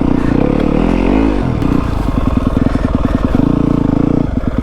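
Yamaha WR250F's single-cylinder four-stroke engine running at low revs on a snowy trail descent, with a brief rise and fall in pitch about a second in, then settling into an even, slow chugging.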